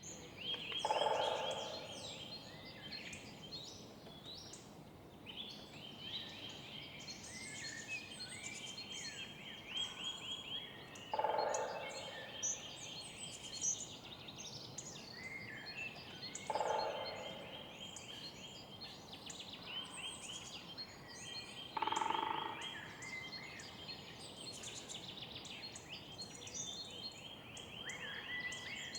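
Woodpecker drumming on wood in short rolls about a second long, four times, the loudest sounds, over a dense chorus of songbirds singing and chirping.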